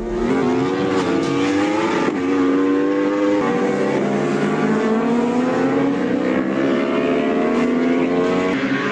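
Racing motorcycle engine at high revs, its note climbing slowly as it accelerates, with short breaks in the pitch about one and two seconds in.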